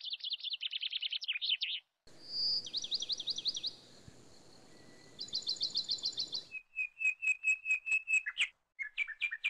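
A songbird singing: quick trilled phrases of high chirps, then near the end a run of sharp, evenly spaced chirps about five a second.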